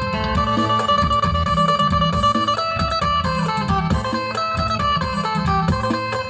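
Isan phin (Thai plucked lute) music: a fast plucked melody of quickly changing notes over a repeating low beat.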